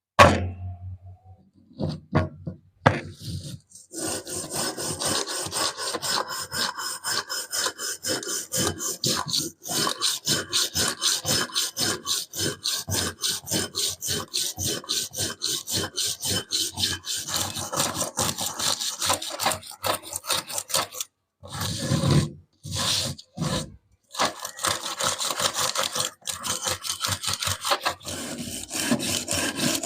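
A knock, then rapid, even back-and-forth hand strokes of an abrasive on a rusty steel wrench, about four a second, scraping off rust. The strokes stop briefly twice past the middle and then resume.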